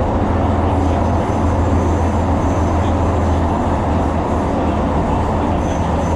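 Tyne & Wear Metro train running along the track: a steady rumble with a strong low drone.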